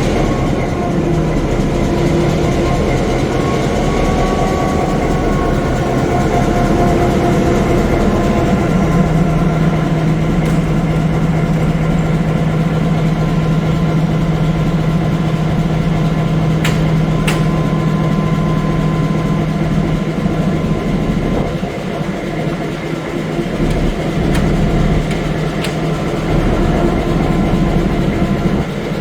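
Diesel engine of the former V/Line P20 diesel-electric locomotive running soon after its first startup following pre-lube. Its note shifts in the first few seconds, then settles into a steady idle, with a couple of short clicks about two-thirds of the way through.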